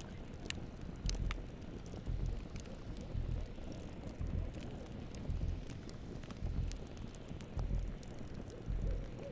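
Campfire crackling, with scattered sharp pops from the burning wood. Under it a low, soft pulse repeats about once a second.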